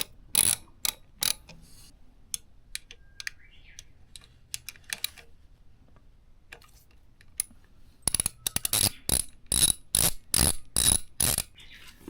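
Ratchet wrench clicking, scattered at first. About eight seconds in it turns into a quick burst of fine clicks, then a steady run of loud clicks two or three a second, as the ratchet is worked back and forth on a bolt.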